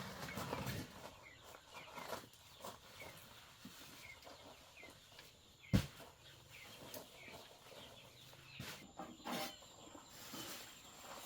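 Chickens calling softly, with short chirps scattered throughout. A single sharp knock about six seconds in is the loudest sound, and a few fainter knocks come near the end.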